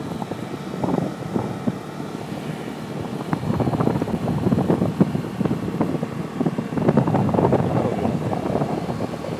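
Motorbike riding along, its engine running under rumbling wind noise that buffets the microphone and swells and eases throughout.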